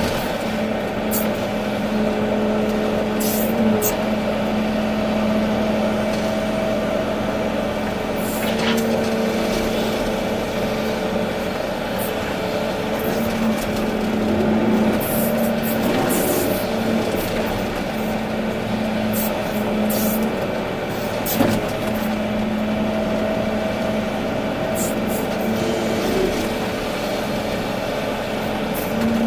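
Volvo EC380D excavator working, its engine and hydraulics giving a steady hum whose tones swell and fade every few seconds as it works, with a few short knocks.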